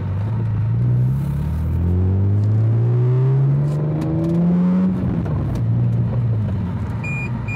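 BMW M3 engine accelerating, its pitch climbing steadily for a few seconds before dropping back to a steady lower drone. A repeating electronic beep starts near the end.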